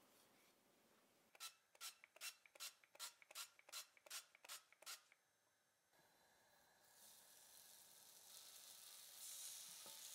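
A quick, even series of about ten light scratchy taps. Then sugar- and cinnamon-coated sweet potato rounds start to sizzle as they are laid in a hot non-stick pan, the hiss growing louder as more pieces go in.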